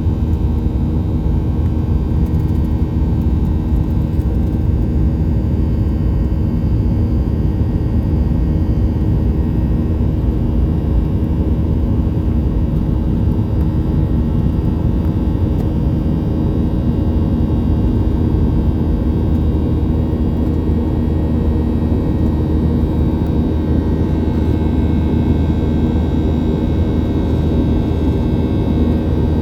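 Boeing 737-800 cabin noise in flight: the steady drone of its CFM56-7B engines and the airflow, a deep, even rumble with a few faint steady tones over it.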